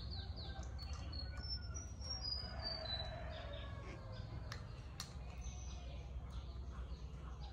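A small bird chirping in short, high whistled notes, a quick run of falling chirps at the start and then a stepped series of notes, over a steady low hum. There are a few faint clicks of a spoon against the bowl.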